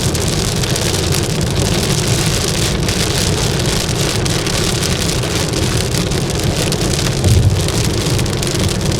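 Heavy rain pelting a moving car, heard from inside the cabin, over the low rumble of tyres and engine on the wet road. A brief louder low thump comes about seven seconds in.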